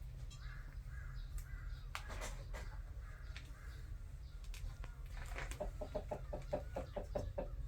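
Birds settling for the night, giving scattered short calls and, near the end, a quick run of low, evenly spaced clucking notes, over a steady low hum.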